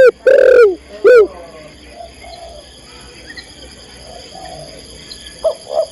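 Spotted dove (tekukur) cooing: a loud three-note coo in the first second and a half, fainter coos through the middle, and another coo starting near the end. This is the call of a female calling to a male. A faint steady high whine runs underneath.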